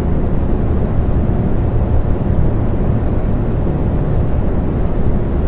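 Fan running: a steady, deep rushing noise with no rhythm or change.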